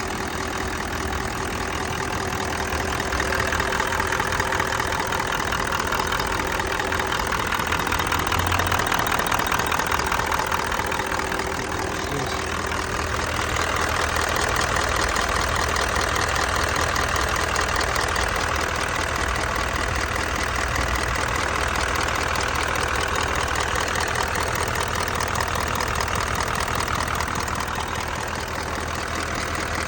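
Engine idling with a fast, regular ticking or clacking, heard from the right side of the engine; the owner does not know its cause.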